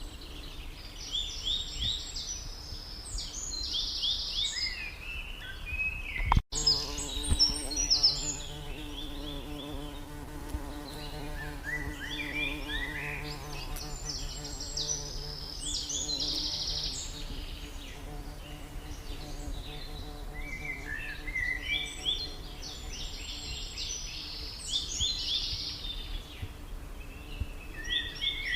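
A small songbird singing, repeating a song phrase of rapid high notes and short trills every ten seconds or so. A low steady buzzing hum runs through the middle stretch.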